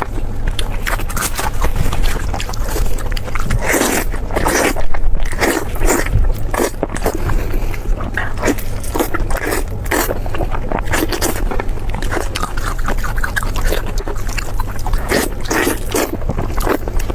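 Close-miked crunching and chewing of crispy fried food, many irregular crisp bites and chews one after another, over a steady low hum.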